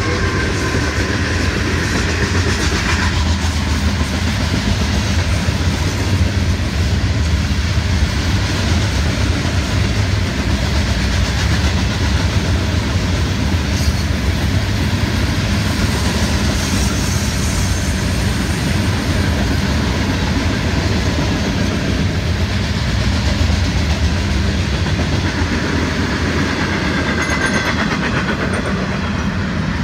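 Florida East Coast freight train rolling past at track side, a loud, steady rumble and clatter of steel wheels on rail. A locomotive's diesel drone fades in the first few seconds, leaving the run of loaded rock hoppers and double-stack container cars.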